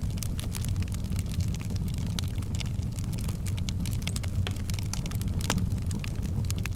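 Wood fire burning in a fireplace: a steady low rumble of the flames with frequent irregular crackles and pops, one sharper pop about five and a half seconds in.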